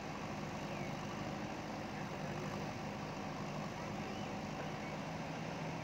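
Diesel engine of a JCB ecoXcellence backhoe loader running steadily at an even, unchanging pitch.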